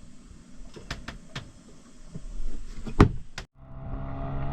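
A few sharp knocks and clicks of handling aboard a boat, the loudest about three seconds in. Near the end the sound cuts abruptly to a steady low engine hum.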